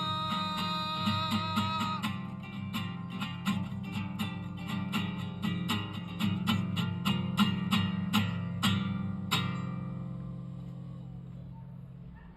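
Acoustic guitar strummed in a steady rhythm to close a song, under a long held note that ends about two seconds in. The strumming stops on a last strum about nine seconds in, which rings out and fades away.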